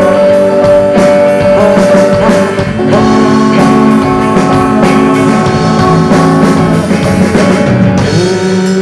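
Rock band playing an instrumental passage: guitar holding long notes over a drum kit with steady cymbal hits.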